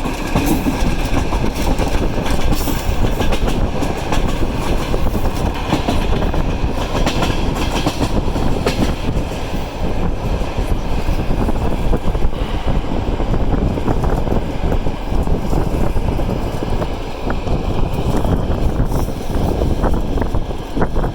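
Passenger train running on the rails, a steady rumble with wheels clicking over the rail joints.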